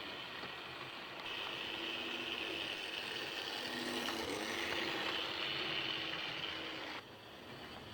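OO gauge model diesel locomotive without a sound chip running round the track: the plain hum of its electric motor and the rumble of its wheels on the rails. It grows louder about a second in and drops away suddenly near the end.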